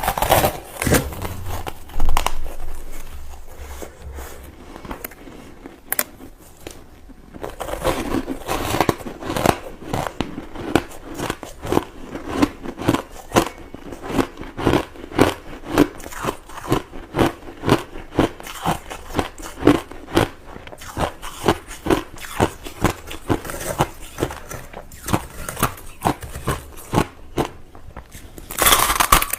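Crushed ice being bitten and chewed with the teeth, close to the microphone: loud crunching bites near the start, then steady rhythmic chewing at about two crunches a second.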